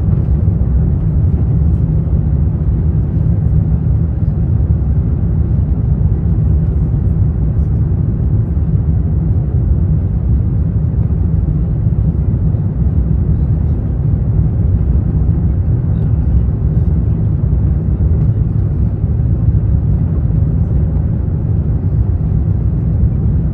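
Steady low rumble inside the cabin of an Airbus A350-900 airliner, unchanging throughout.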